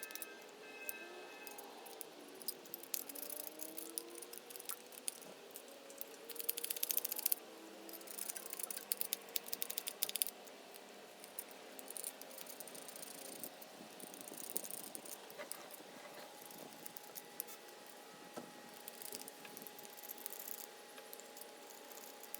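Light rattling and clicking of small metal parts being handled, in short clusters, with faint music underneath.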